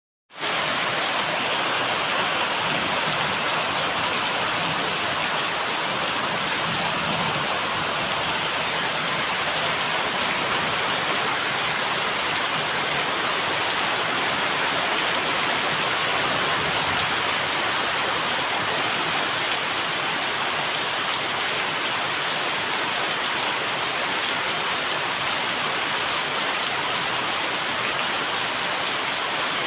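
Steady, continuous rainfall, an even hiss of rain falling on surfaces, starting almost at once and holding a constant level.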